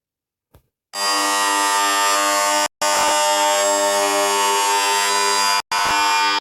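A loud, harsh buzzing tone at a steady pitch that starts about a second in and drops out twice for a split second, near three seconds and near six.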